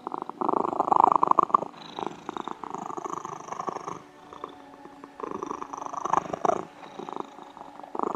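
A domestic cat purring in repeated phrases a second or two long, with a short lull about four seconds in.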